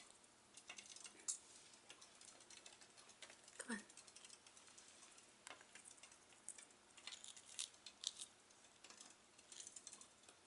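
Faint, scattered light clicks and ticks from pet budgies pecking and moving about, over near-quiet room tone.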